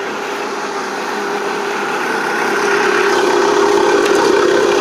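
1980 Case 480D backhoe's diesel engine idling steadily as it warms up after a cold start at about 0°F, block heater plugged in; it grows gradually louder.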